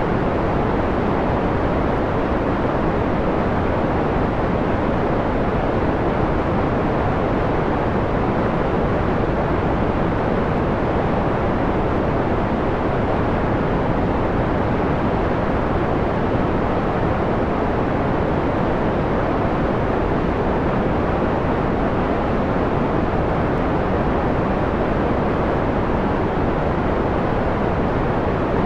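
Steady synthetic white noise, filtered to a dark, mellow quality: most of its energy is low and middle, with the hiss fading off toward the top. It holds an even level with no change.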